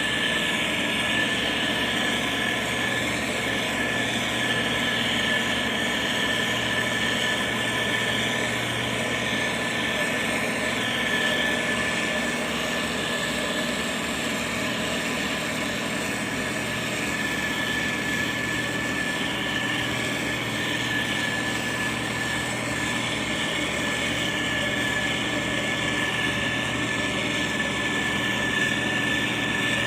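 Motor grader's diesel engine running steadily under work, with a steady high-pitched whine over the engine hum.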